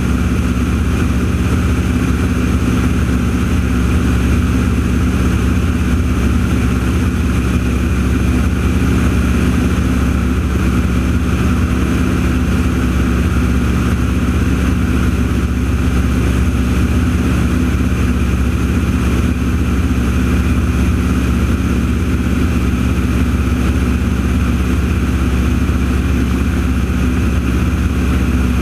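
An engine running steadily: a constant low drone that does not change in pitch or loudness.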